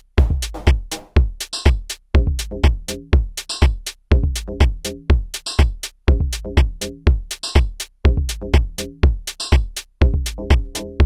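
Korg drumlogue drum machine playing a looped pattern at about 120 beats a minute: deep kick drums, short hi-hat ticks and a pitched synth part, with a brighter open hi-hat or cymbal once near the end of each two-second bar.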